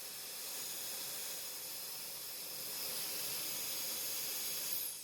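TechMeri ultra-fast hair dryer running, a steady rush of blown air that steps up a little in level partway through. It is switched off near the end, with a brief falling whine as the motor winds down.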